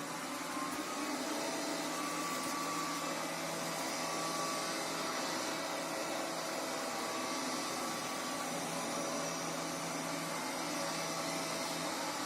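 Midea MR04 robot vacuum cleaner running with a steady whirring noise and faint whining tones that come and go.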